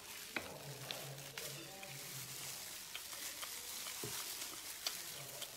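Close-up eating sounds: chewing on a mouthful of chili-crusted meat, with scattered small crackling clicks over a steady faint hiss.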